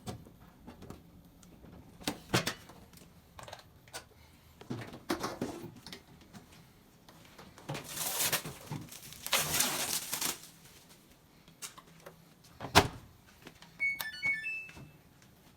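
Handling noises while a washing machine's hoses are fitted: scattered clicks and knocks, two short hissing stretches past the middle, and one sharp knock. Near the end a quick run of short electronic beeps sounds, typical of a front-load washer's control panel being switched on.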